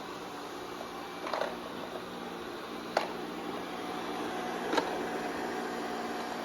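Amarey A90+ robot vacuum running: a steady whir from its suction fan and brushes, with three sharp clicks about a second and a half apart.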